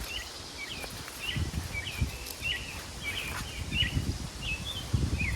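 A small bird chirping repeatedly, short quick notes about one or two a second. Low rustling and handling noise comes and goes underneath.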